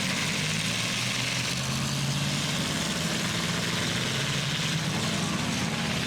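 Several demolition derby trucks' engines running together, a steady din of low engine drones that shift slightly in pitch as they rev, with no distinct crash.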